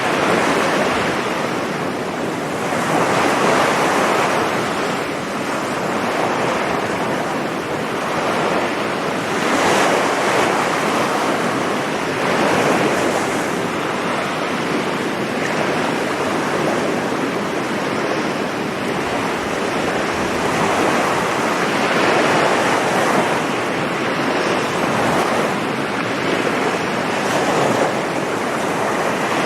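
Sea surf washing onto the beach in a continuous rush of noise, swelling and easing every few seconds as the waves break.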